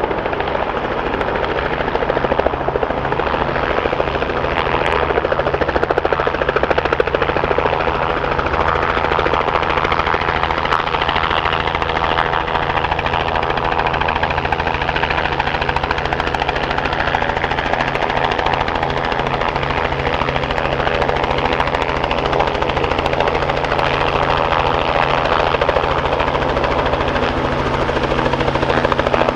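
Helicopter running steadily at high power, a continuous dense engine and rotor noise with a fast, even rotor beat and steady low hum.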